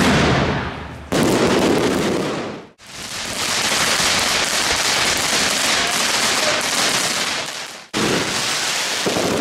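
Fireworks going off in several short clips cut together, so the sound breaks off and changes abruptly about a second in, at about three seconds, and near the end. The long middle stretch is a dense, steady crackle.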